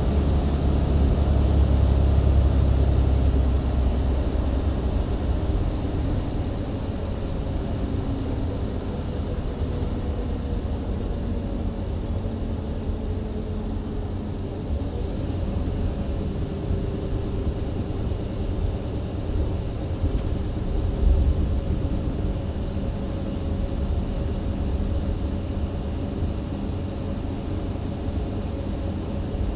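Mercedes-Benz Citaro C2 LE MÜ Hybrid bus heard from inside while driving: the diesel engine and Voith automatic gearbox run under road and tyre rumble. The low drone is heaviest for the first few seconds, then settles to a steady cruise.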